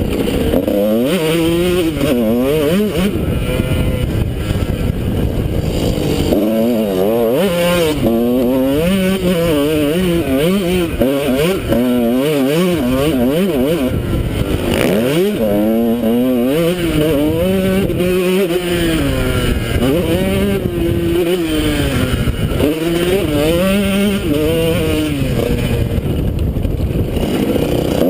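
Honda CR125 two-stroke single-cylinder motocross engine being ridden hard, its pitch climbing and dropping again and again as the throttle is opened and shut. Heard from the rider's helmet.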